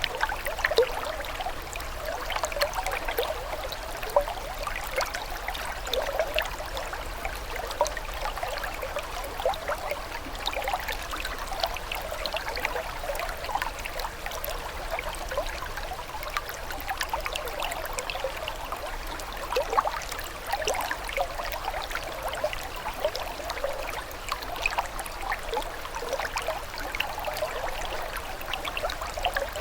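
Running water trickling and babbling steadily, with many small irregular splashes and gurgles throughout.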